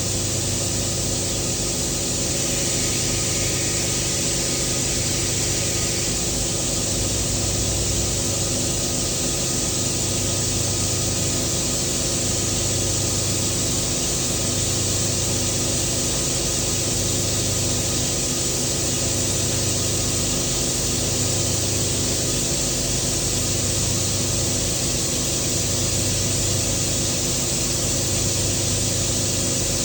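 Welding arc burning steadily for the whole stretch: an unbroken hiss over the hum of the welding machine, with no breaks or restarts.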